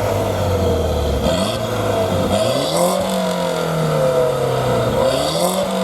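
A car engine running at a low, steady idle, then revved twice: the pitch jumps up about two and a half seconds in and falls back slowly, then rises again near the end.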